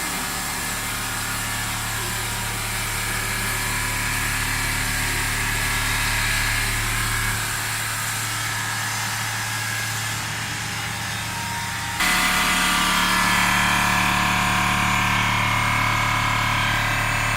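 CNC horizontal oscillating-blade foam cutting machine running, its blade sawing steadily over a steady motor hum. About twelve seconds in the sound changes abruptly and gets a little louder.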